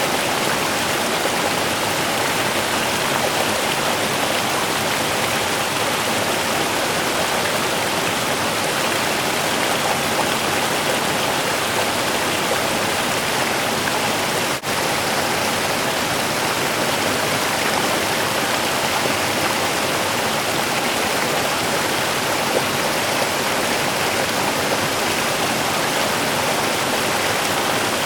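A small river's running water, a steady rushing over the whole range of pitch, with a momentary drop-out about halfway through.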